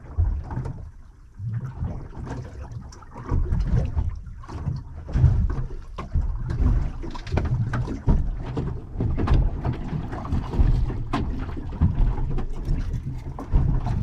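Wind buffeting the microphone on a small anchored fishing boat: an uneven, gusting low rumble with scattered small knocks.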